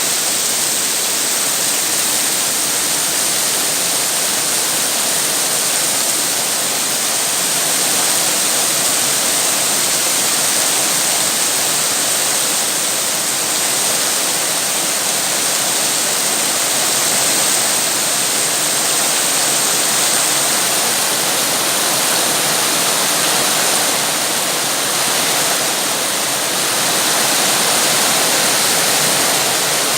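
Heavy rain falling steadily: a dense, even hiss with no separate drops or thunder, rising and falling gently in loudness.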